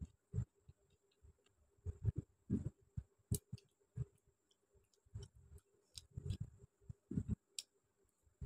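Close-miked chewing, lip smacks and wet mouth clicks of a person eating chicken curry and rice by hand, coming at irregular intervals.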